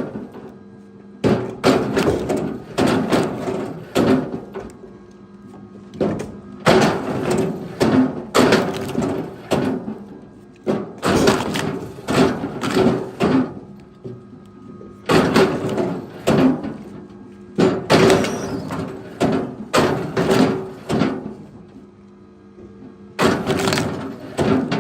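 Chunks of firewood being thrown onto a pile, knocking and clattering against each other in repeated bursts every second or two, over a steady low hum.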